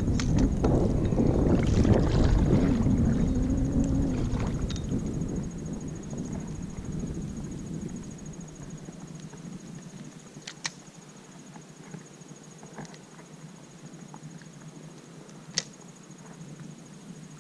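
Wind buffeting the microphone, loud for the first few seconds and then dying down, with two sharp knocks later on and a faint steady high tone throughout.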